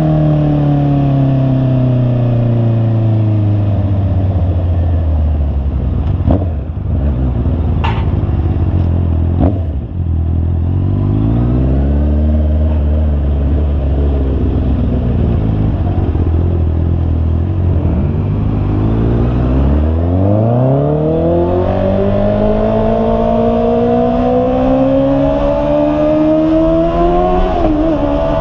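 Honda CB650R's inline-four engine on the move: revs fall steadily over the first ten seconds or so as the bike slows, with a few clicks along the way, then hold low and steady. About twenty seconds in the revs climb strongly under acceleration, with a brief dip near the end.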